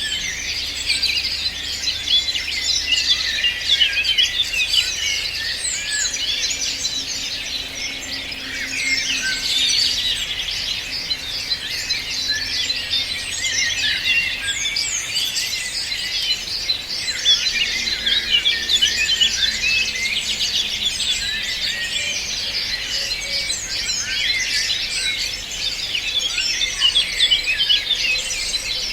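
Many birds singing at once: a dense, unbroken chorus of quick high chirps and trills.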